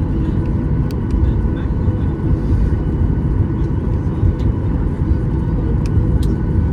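Steady low rumble of engine and airflow noise inside a Boeing 737-800's passenger cabin, with faint thin steady tones and a few light clicks.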